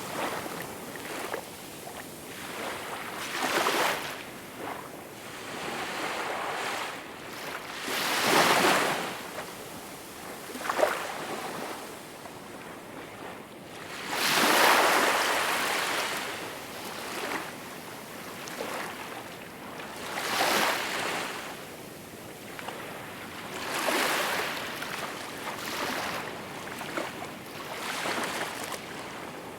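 Small waves washing onto a shore. Each wave is a soft swell of hiss that builds and fades, coming irregularly every few seconds, with the biggest one about halfway through.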